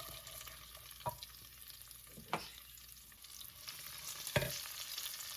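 Diced onion and garlic sizzling in hot olive oil in a clay cooking pot as they are stirred, with three sharp knocks along the way, the last the loudest.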